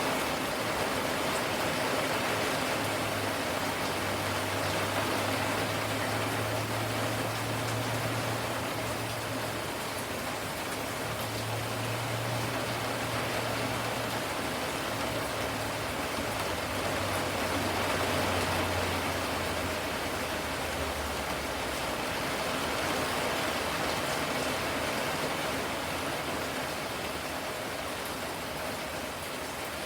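Steady rain falling, an even hiss of drops, with a low hum running underneath from a few seconds in until about two-thirds of the way through.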